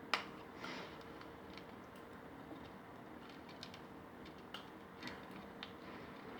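Scattered light clicks and taps from a grey parrot playing with toys and cardboard, with a sharp click near the start and a brief scrape soon after.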